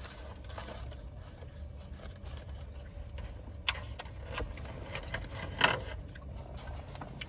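Steady low rumble of a car engine idling, with a few sharp clicks and rustles, the loudest about two-thirds of the way in.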